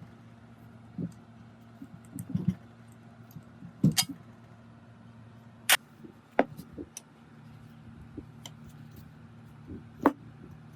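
Metal parts and tools knocking and clinking as they are handled, in scattered separate clanks with a few sharper ones about four, six and ten seconds in, over a faint steady low hum.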